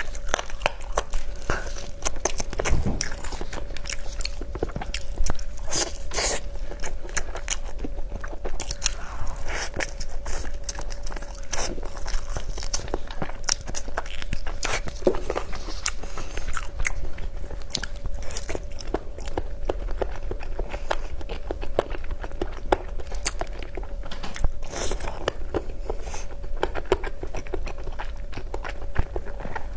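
A person biting and chewing crunchy food close to the microphone, with many sharp crunches one after another, over a faint steady hum.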